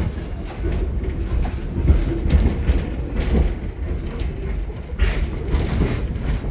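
Train rolling along the track, heard from aboard: a steady low rumble with a few uneven clacks and knocks.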